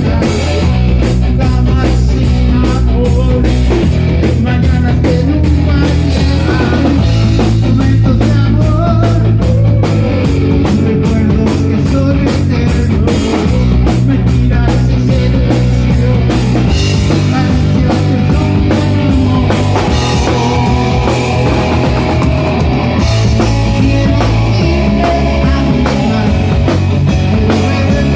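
Rock band playing an instrumental passage with a drum kit, electric guitar and a bass line that moves to a new note every couple of seconds. Rapid cymbal strokes drive the first half.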